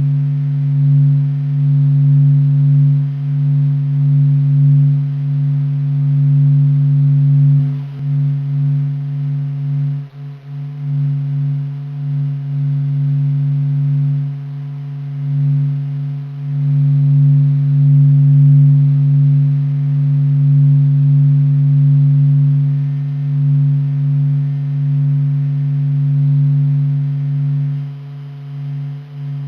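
NASA sonification of the sun: a deep, steady drone with a second, fainter tone an octave above, slowly swelling and fading, dipping briefly a few times.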